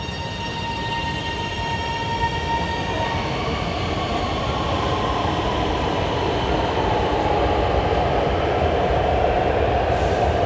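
Lahore Orange Line metro train arriving. A steady electric whine with several overtones is heard for the first few seconds, then a slightly falling tone, under a rushing rolling noise that grows louder as the train comes in.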